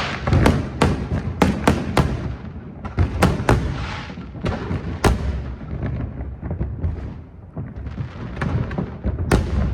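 Fireworks display: a rapid, irregular string of sharp bangs over a continuous low rumble of booms. The bangs thin out and quieten for a couple of seconds past the middle, then pick up again near the end.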